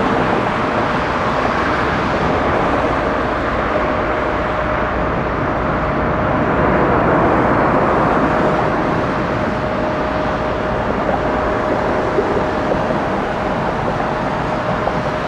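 Jet airliner engines running loud and steady: a continuous rush of noise with one steady whine held through it.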